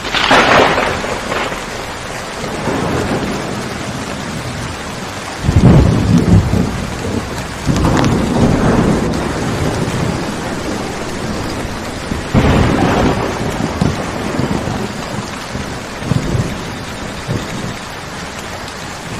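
Steady rain with several rolls of thunder, the loudest a deep rumble about five and a half seconds in.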